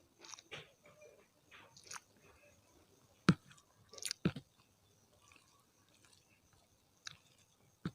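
Close-miked mouth sounds of someone chewing and biting a mouthful of rice with chicken gizzard, liver, tofu and green chilli. Soft wet chewing is broken by a few sharp clicks, the loudest about three and four seconds in.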